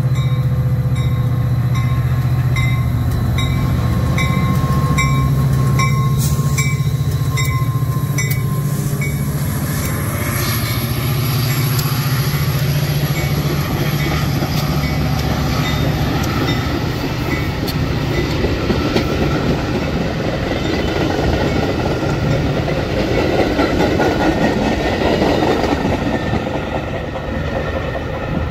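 A train going by: a locomotive's steady low engine note and a grade-crossing bell ringing about twice a second for the first nine seconds or so. Then comes a building rumble and rattle of railcars rolling past on the rails.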